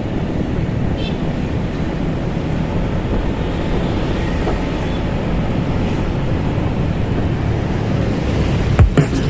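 Motorcycle riding on the road: steady engine rumble mixed with wind rushing over the camera microphone. There are a couple of sharp knocks near the end.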